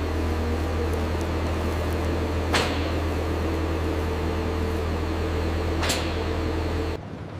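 A steady low mechanical hum with two brief sharp knocks, one about two and a half seconds in and another about six seconds in; the hum cuts off suddenly near the end.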